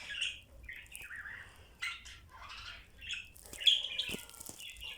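Budgerigars chirping and chattering in short, scattered calls, with one louder, sharper call a little before the end.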